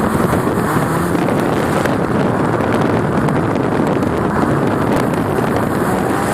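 Exhaust of a 2005 Subaru Liberty GT's EJ20X turbocharged flat-four, running loud and steady with no clear rise or fall in pitch.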